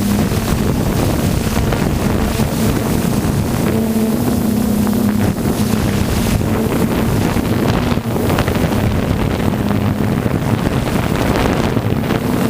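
An engine running steadily with a low hum that drifts a little in pitch, under heavy wind noise on the microphone.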